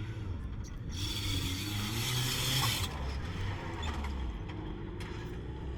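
Off-road 4x4 engine running with a low, uneven hum, joined about a second in by a loud rushing hiss that lasts about two seconds and then cuts off.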